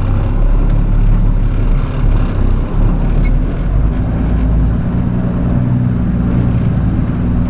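Flatbed straight truck's engine running at low speed, heard from the cab while the truck creeps into a parking space; the engine note changes about halfway through.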